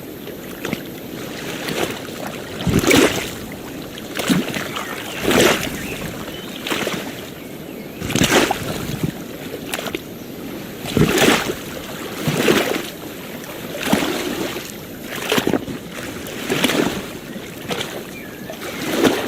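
Small waves lapping and splashing in a regular rhythm, a short wash of water about every one and a half seconds over a steady hiss of surf.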